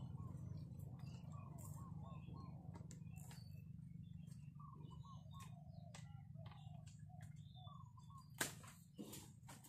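Small birds chirping and twittering in short repeated calls over a faint low steady hum, with two sharp clicks near the end.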